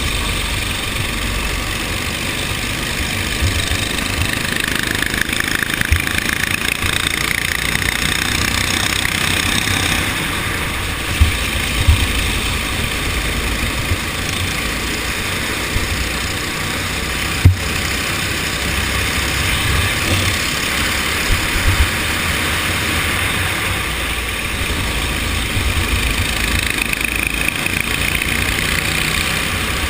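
Go-kart engine running during a race, its pitch rising and falling with the throttle. Over it are an uneven low rumble and a few sharp knocks, the loudest just past halfway through.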